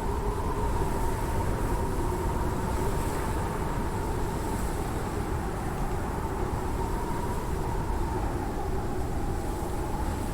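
Steady vehicle running noise: a low rumble under a constant droning hum.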